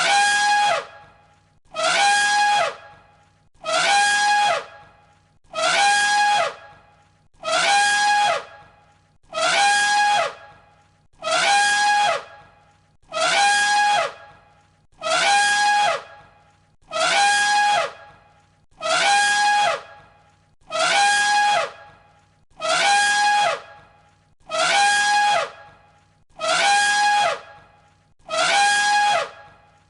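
Elephant trumpeting: the same short, high, brassy call repeated identically about every two seconds, one recording looped.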